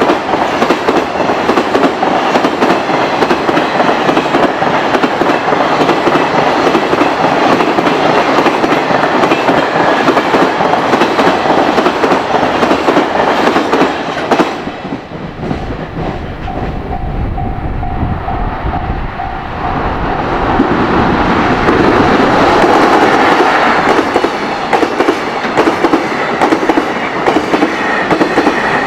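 A train passing at speed, its wheels clacking rhythmically over the rail joints. About fifteen seconds in the rolling noise eases for a few seconds and a level-crossing bell is heard ringing, before the wheel noise builds again.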